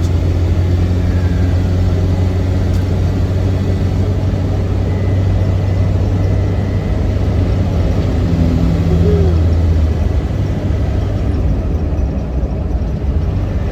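Land Rover Defender's 300Tdi four-cylinder turbodiesel engine running at cruising speed with road noise, a steady low drone. The engine note shifts briefly about nine seconds in.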